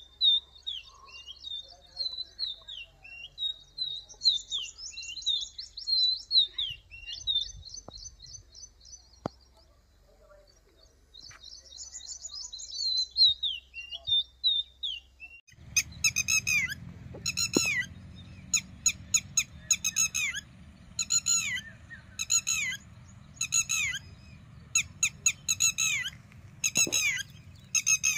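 Small birds calling: a run of quick falling chirps and short trills, then, about halfway through, louder and sharper calls that repeat about once a second, each falling steeply in pitch, over a low background noise.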